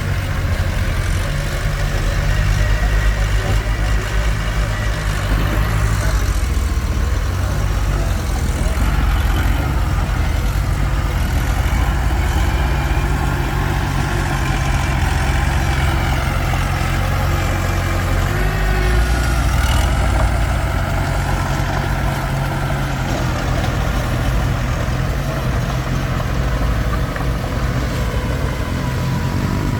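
Komatsu D21P bulldozer's diesel engine running steadily while working, its pitch and load shifting up and down a few times.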